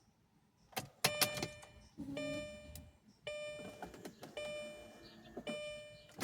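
A few sharp clicks, then a car's dashboard warning chime sounding four times, about once a second, as the Audi is readied for a cold start.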